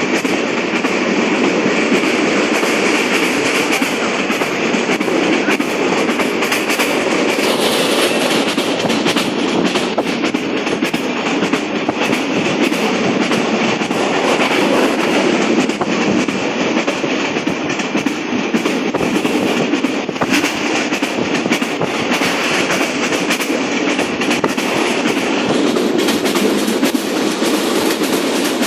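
Rangpur Express passenger train running along the track: a steady rumble of wheels on rails, with rapid clicking throughout.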